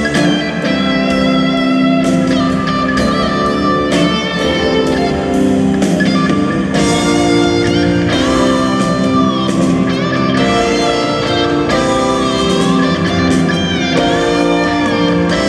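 Live rock band performance with a lead electric guitar playing a melodic line with bent notes over held chords.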